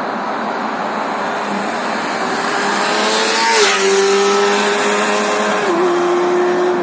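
Honda CBR600RR's inline-four engine on its stock exhaust, running at high, steady revs over a loud rushing noise. The engine note rises out of the rush about two seconds in, with a brief sharp flare around the middle and a small drop in pitch near the end.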